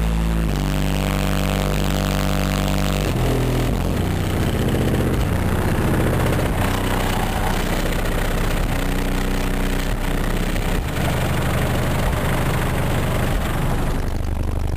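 Kicker Comp 15-inch car subwoofers in a trunk playing a bass-heavy song loud, the deep bass notes held and stepping from pitch to pitch.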